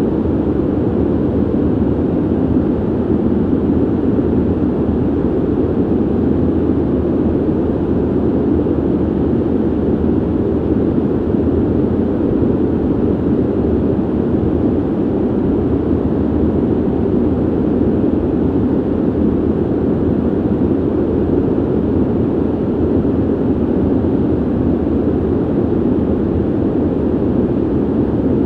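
Ventilation running: a steady, unchanging rush of air, deep and low, with little hiss on top.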